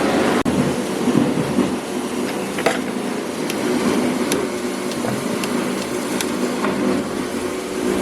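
Steady mechanical clattering, like a machine running, with sharp clicks at irregular intervals about a second apart.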